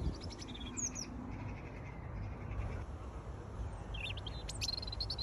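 Songbirds chirping and singing in short high phrases, a cluster near the start and another in the last second or so, over a steady low rumble.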